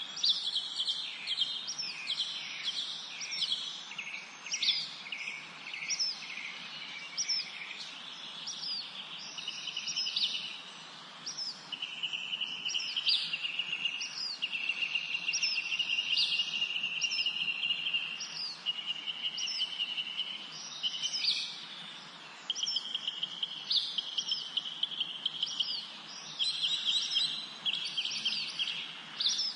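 Several songbirds singing together in a spring forest: many short, sharp downward chirps repeating throughout, with long rapid trills of one to three seconds each, several of them in the second half, over a faint steady hiss.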